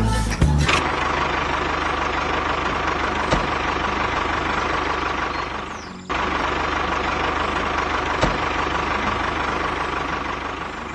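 Vehicle engine running steadily at a low, even pulse. It cuts out abruptly about six seconds in, resumes at once, and fades away near the end.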